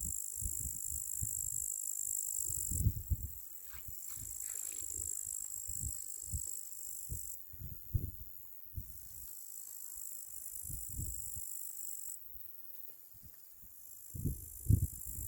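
Crickets chirping in a steady high-pitched chorus, with irregular low thumps underneath, loudest near the end.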